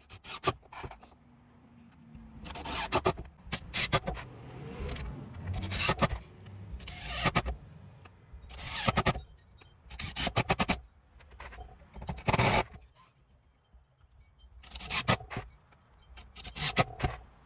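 Repeated short bursts of screws being driven into timber decking boards with a power drill, sped up in a fast-forward so the runs sound like scraping.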